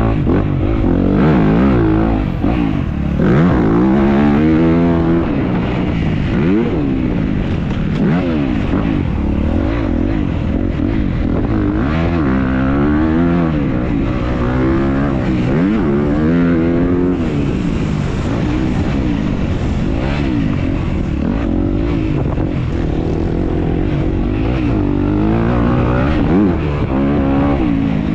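Dirt bike engine under race throttle, its revs climbing and dropping every second or two as the rider opens and closes the throttle and shifts, over a steady low rumble on the on-board camera.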